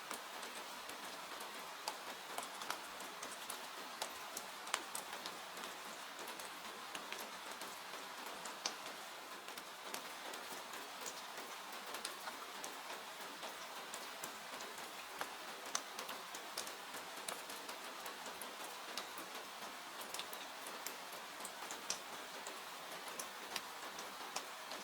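Steady rain hiss mixed with the irregular sharp pops and crackles of a wood fire burning in a fireplace.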